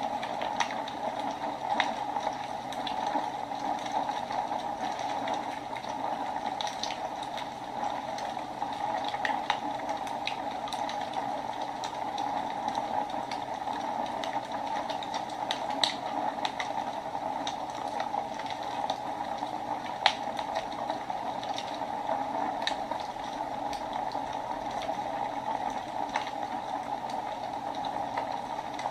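Wood fire burning in a fireplace: a steady rushing hiss with irregular sharp crackles and pops, a few louder snaps standing out.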